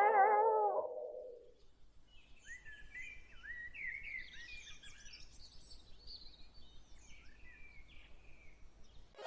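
A held musical note slides down in pitch and fades out over the first second or so. After it, faint birds chirp in short rising and falling calls for several seconds.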